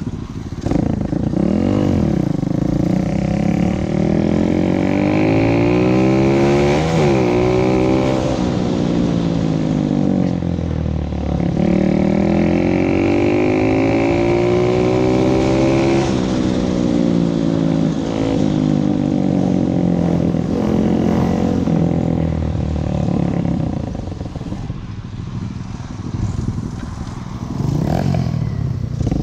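Motorcycle engine running under way, its pitch rising and falling in long sweeps as it speeds up and eases off, twice, then running steadier. It drops back for a few seconds near the end.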